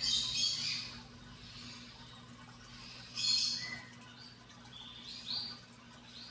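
High-pitched chirping and squeaking calls in bursts: a loud burst at the start, another about three seconds in, and short rising squeaks around five seconds in.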